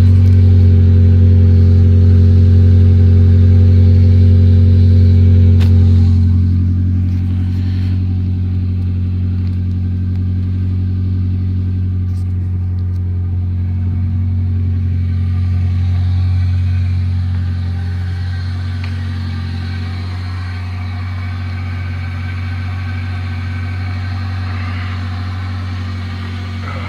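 Sixth-generation Toyota Celica's four-cylinder engine idling through a muffler-deleted exhaust, a steady deep drone. It eases a little quieter about six seconds in and stays steady after that.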